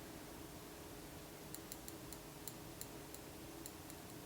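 Faint, irregular light ticks, about ten of them, starting about a second and a half in, over a steady low hum.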